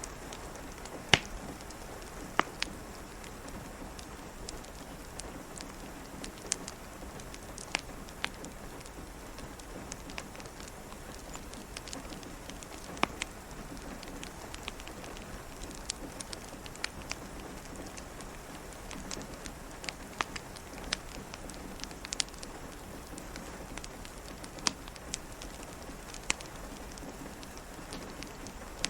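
Steady rain pattering, with irregular sharp crackles and pops of a wood fire scattered through it, the loudest about a second in.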